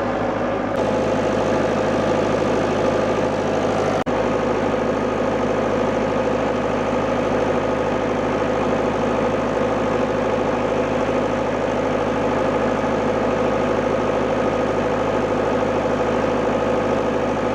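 An engine running steadily at idle, a continuous hum with several steady tones, with a momentary break about four seconds in.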